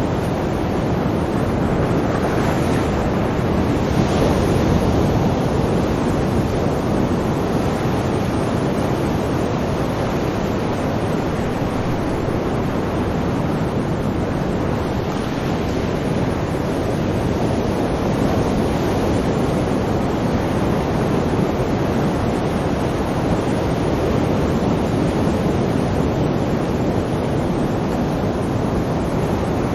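Sea waves washing in as a steady rush of surf, swelling a little a few seconds in.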